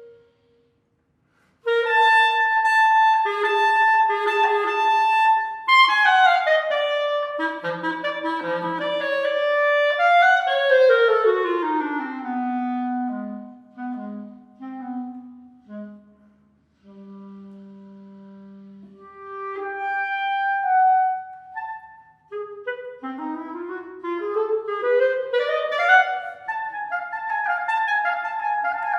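Solo clarinet playing: after a brief pause, repeated notes, then a long downward run into soft low notes, a short break about three quarters through, and a rising run up to held high notes near the end.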